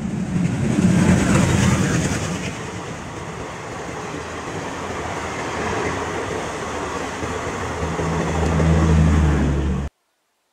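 Passenger train running past, a continuous rushing noise of wheels and coaches, with a low steady hum growing louder near the end before it cuts off suddenly.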